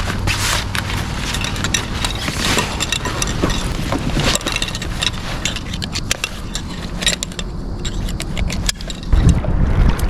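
Handling noise on a kayak: scattered clicks, knocks and scrapes over a steady low hum. Near the end a louder low rumble comes in, like wind on the microphone.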